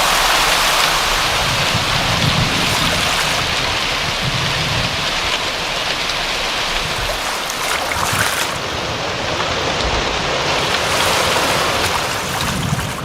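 Steady rain falling, a dense, even hiss of water.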